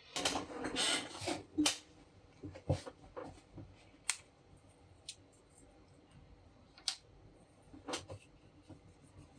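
Small parts being handled and worked by hand: a burst of scraping and rubbing in the first second and a half, then scattered light clicks and taps.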